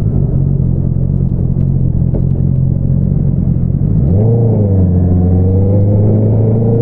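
2022 Honda CBR650R's inline-four engine running through an Akrapovič single-outlet exhaust. It runs steadily for about four seconds, then the pitch jumps up and climbs slowly as the revs rise.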